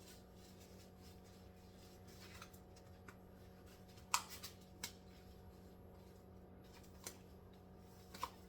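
Faint handling sounds of a disposable exam glove being pulled on: a few isolated sharp snaps and clicks with soft rustling, the loudest a little past the middle, over a steady low hum.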